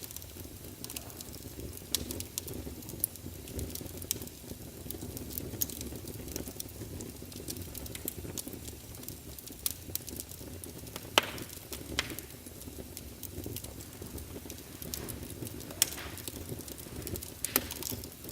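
Wood fire burning in a fireplace: a steady low rumble of flame with frequent sharp crackles and pops from the burning logs, two of them louder around the middle.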